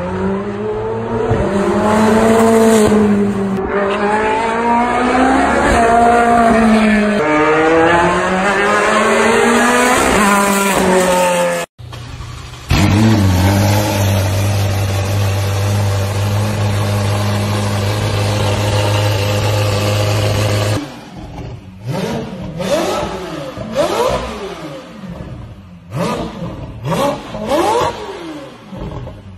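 A Ferrari race car's engine revs up and down repeatedly through the gears. After a cut, a Ferrari F8's twin-turbo V8 idles steadily, then is given a series of sharp throttle blips through its exhaust.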